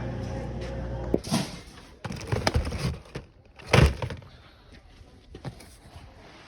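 A steady low engine hum cuts off about a second in. A series of heavy knocks and bangs follows, the loudest about four seconds in, with a last lighter knock near the end.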